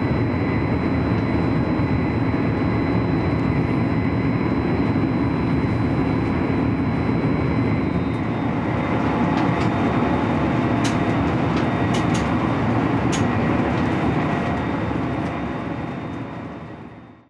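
Cabin running noise of a German ICE3 high-speed train cruising at about 250 km/h: a steady rumble and hiss of wheels on rail and air rushing past, with a few faint clicks partway through. It fades out near the end.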